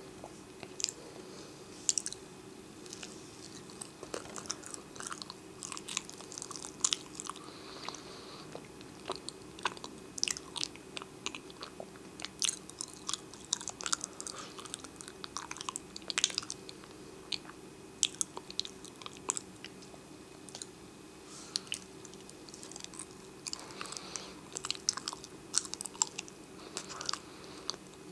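A person chewing food close to the microphone, with many short, sharp crackles and mouth clicks scattered irregularly throughout, over a faint steady low hum.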